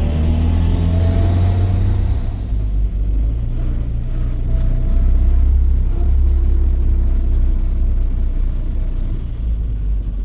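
Car running on the road: a steady low engine and road rumble, with faint engine tones above it.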